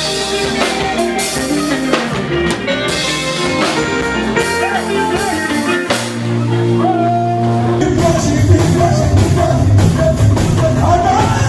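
Live fuji band playing, with percussion and a sung melody line; about eight seconds in the sound thickens with a heavier, denser low end.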